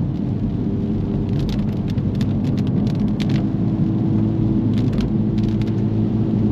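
Honda Civic Type R's turbocharged four-cylinder engine holding a steady hum at cruising speed over the hiss of tyres on a wet road, with scattered sharp ticks, as from raindrops or spray hitting the car.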